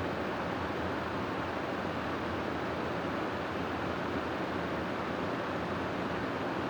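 Steady wind noise: an even, unbroken rushing hiss without gusts or swells.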